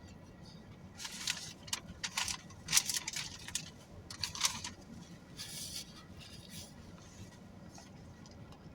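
Rustling and crinkling in a cluster of short bursts, like wrapping being handled, fading about six seconds in to a low steady background.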